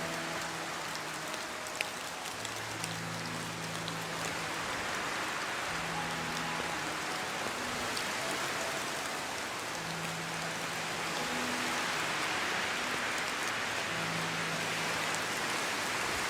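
Steady heavy rain falling and pattering on a surface. Faint low sustained tones sound underneath now and then.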